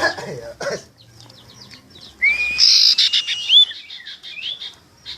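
Tame pet owl calling: quick high chirps, then from about two seconds in a run of louder rising, whistle-like calls with a harsh hissy burst among them.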